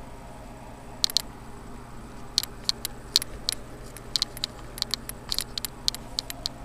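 A run of short, sharp clicks, irregularly spaced and some in quick pairs, starting about a second in.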